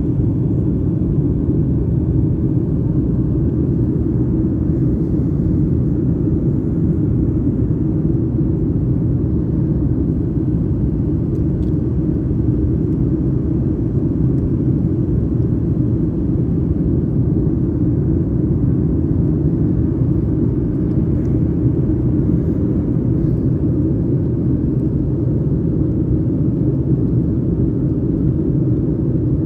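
Steady low rumble of cabin noise inside a Boeing 737 MAX 8 airliner, from its CFM LEAP-1B jet engines and the airflow over the fuselage, holding even with no change in pitch or level.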